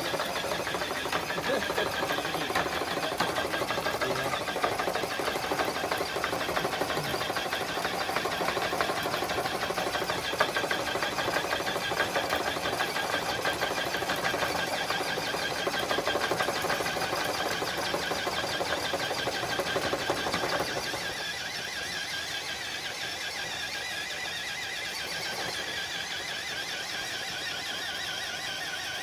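Electric motor and geared drivetrain of an Axial Base Camp RC crawler whirring and buzzing under load as it drags a dead-weight sled loaded with four bricks. The sound drops off about three-quarters of the way through as the truck stops pulling.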